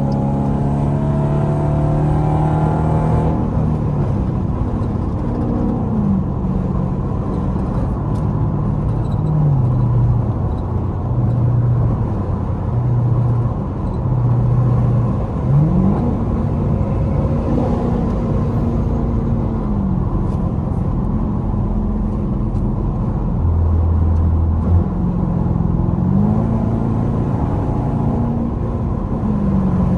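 Straight-piped Dodge Durango exhaust running loud at highway speed, its pitch climbing sharply a few times as it accelerates and dropping back as the throttle eases off.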